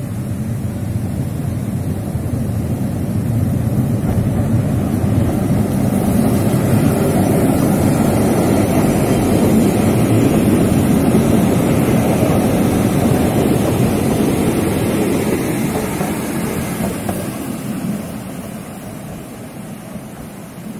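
Train Jaune, the Pyrenees' yellow electric metre-gauge train, passing close by over a steel bridge: a steady rail rumble that builds to its loudest about halfway through, then fades as the train moves away.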